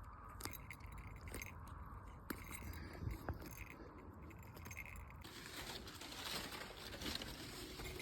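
Faint scattered clicks and crunching, tearing rustles: a Harris hawk feeding on meat on the glove, over a low rumble. A soft hiss rises about five seconds in.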